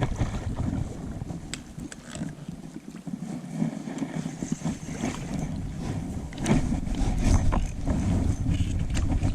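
Kayak on the water: a low rumble of wind and water with scattered light knocks and rustles from the boat and gear being handled, a little louder after about six seconds.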